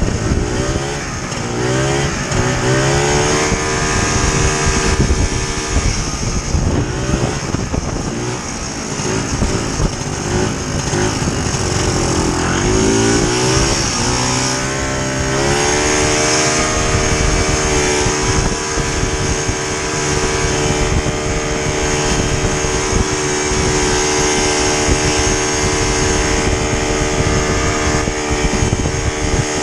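Vintage two-stroke snowmobile engine running under way. Its pitch rises and falls with the throttle for the first fifteen seconds or so, then holds steady at a higher pitch.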